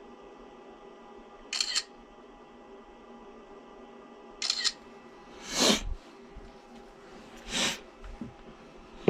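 A few short mechanical clicks and clatters spread over several seconds, the loudest about halfway through, over a faint steady hum.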